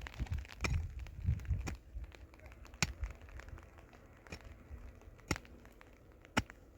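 A series of scattered sharp cracks and knocks, about seven, spread unevenly over several seconds, with low rumbling handling noise in the first couple of seconds.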